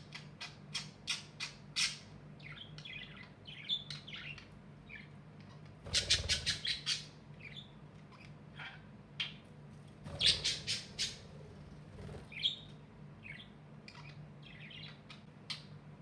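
Budgerigars chirping and chattering, with two louder bursts of rapid squawks about six and ten seconds in.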